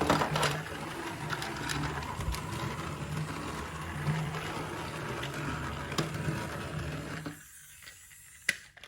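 Small battery-powered toy motor whirring through plastic gears, with scattered light clicks; it stops about seven seconds in, and a single click follows near the end.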